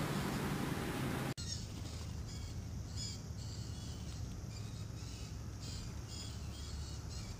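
Steady rushing noise that cuts off abruptly a little over a second in, followed by quieter outdoor background with birds giving short, high, repeated calls.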